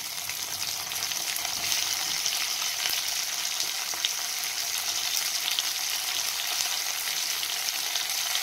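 Browned sliced onions and freshly added chopped tomatoes sizzling steadily in hot oil in a kadhai, with a few light clicks from a metal slotted spoon against the pan.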